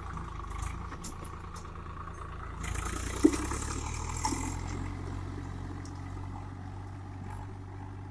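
Swaraj 744 FE tractor's diesel engine running steadily, with a rise in clattering and a single sharp knock about three seconds in.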